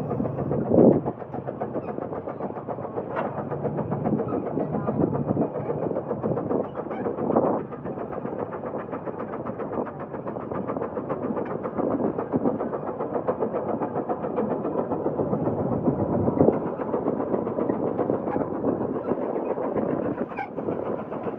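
Case 150 steam traction engine working hard under a heavy plowing load, its exhaust chuffing in a rapid, steady beat with a few louder bursts.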